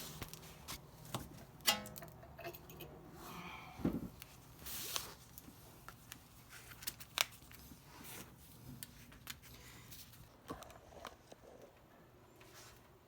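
Scattered metallic clicks, knocks and short scrapes of a pry bar and drive axle as the axle's inner joint is worked loose from the transaxle, with one quick rattle near the start.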